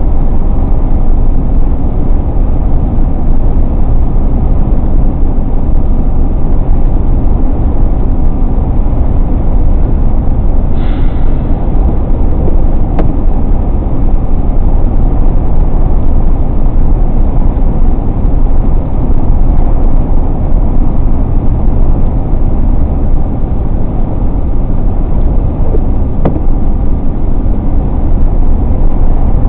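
Steady road noise of a car driving at a constant pace, tyres and engine running evenly, with a short hiss about eleven seconds in.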